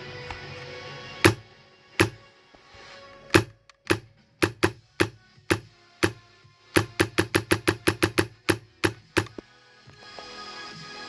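HPA-powered ARP9 airsoft gun with a speed trigger firing: sharp single shots at irregular intervals, then a rapid string of about a dozen shots at roughly five a second. Background music plays under the start and the end.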